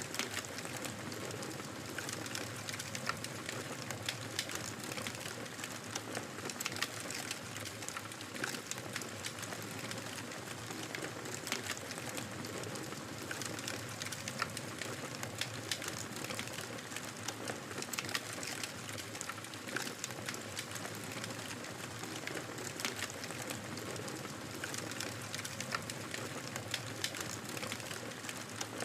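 Wood fire in a fireplace crackling: a steady hiss of burning with frequent small, sharp pops and snaps at irregular intervals.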